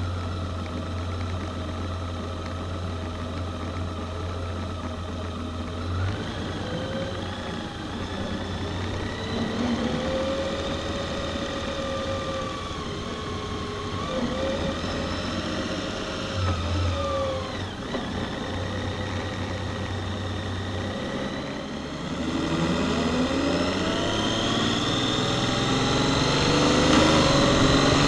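Honda Gold Wing flat-six motorcycle engine idling steadily, then pulling away, its pitch rising and falling as it changes speed. It gets louder with a rising pitch over the last few seconds as the bike speeds up.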